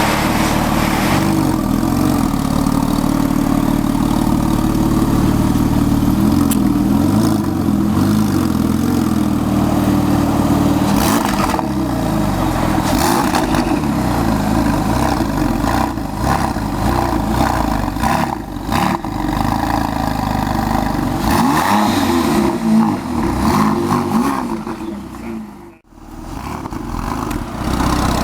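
Porsche 997 Turbo's twin-turbo flat-six exhaust, the engine running with its pitch rising and falling several times as it is revved. A brief sudden drop in sound comes near the end.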